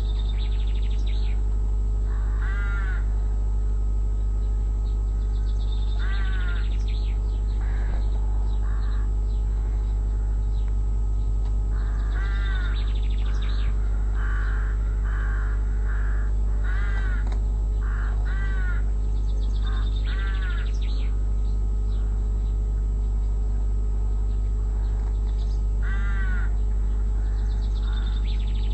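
Crows cawing: harsh, repeated calls coming singly and in short runs, with a steady low hum underneath.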